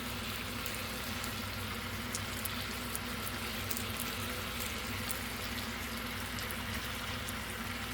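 Marinated chicken sizzling and bubbling as it cooks in a pan: a steady hiss with scattered small pops, over a low steady hum.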